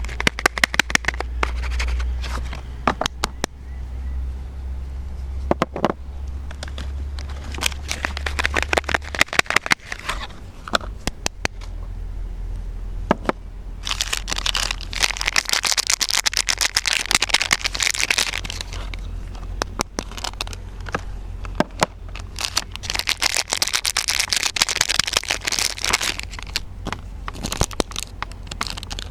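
Soap bars being unwrapped by hand: the wrappers crinkle and crackle with many sharp little clicks. There are two longer spells of rustling, about halfway through and again about three quarters through, over a steady low hum.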